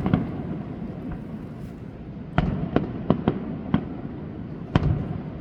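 Fireworks display: aerial shells bursting in sharp bangs, one right at the start, a quick run of five about halfway through, and another loud one near the end, each with a short low rumble.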